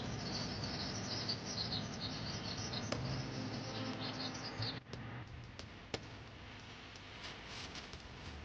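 Small wild birds chirping in quick high calls over a steady low background hum; about five seconds in the sound drops suddenly, leaving fainter chirps and a few clicks.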